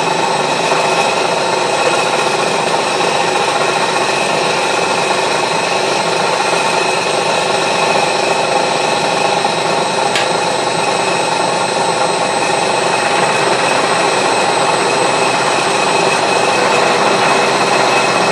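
Milling machine taking a steady 20-thou cut in tough steel: the motor running evenly under the cutter's continuous grinding rasp, with one small click about ten seconds in.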